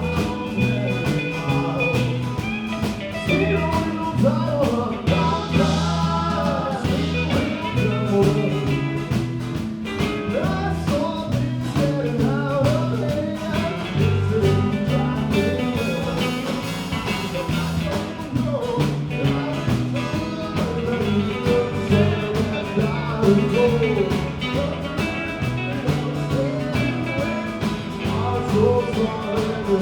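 Live rock band playing, with a bending guitar melody over bass and a steady drum beat.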